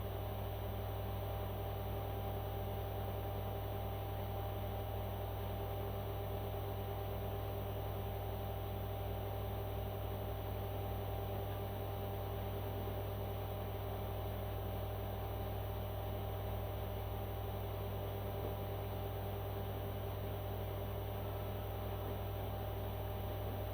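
A steady low hum with a few faint constant tones above it, unchanging throughout.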